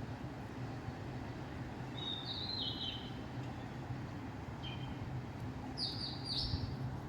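A bird calling three times, each call a short high note that steps down in pitch, the last the loudest, over a low steady rumble.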